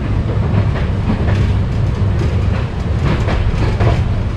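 Park railway train rolling along its track over a bridge, heard from an open passenger car: a steady low rumble with irregular clicks of the wheels on the rails.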